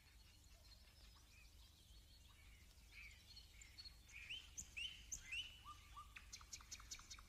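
Faint birdsong: scattered short chirps and whistles that grow busier after about three seconds, with a rapid ticking trill starting near the end, over a low steady hum.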